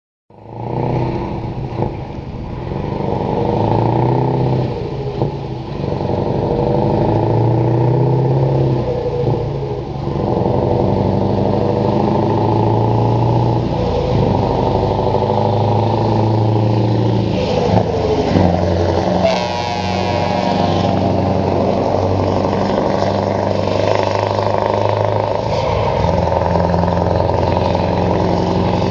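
Scania 164L 480 truck's V8 diesel accelerating hard through the gears, the engine note climbing and then dropping at each of several gear changes.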